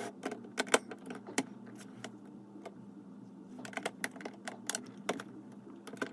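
Plastic Lego pieces clicking and rattling as they are handled and pressed together: scattered sharp clicks, busiest in the first second and again from about three and a half to five seconds in.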